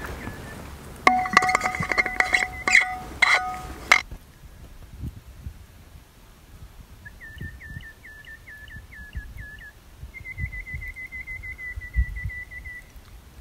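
Birds calling: a series of about eight short falling chirps, then a fast even trill lasting a couple of seconds. Before them comes a louder burst of ringing tones and clinks about three seconds long.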